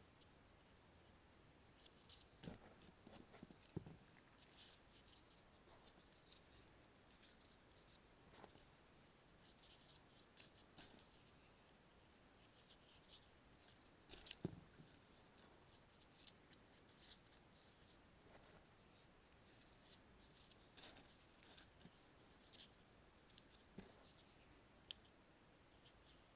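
Faint rustling and crinkling of paper being handled and folded by hand, irregular crisp crackles with a few louder taps, the strongest about two and a half, four and fourteen seconds in.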